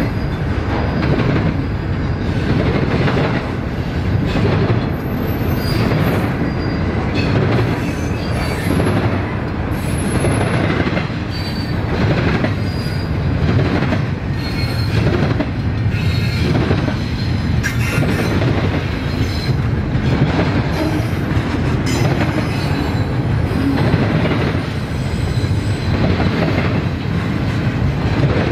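Double-stack container freight train rolling past: a steady rumble of wheels on rail, with short high wheel squeals now and then.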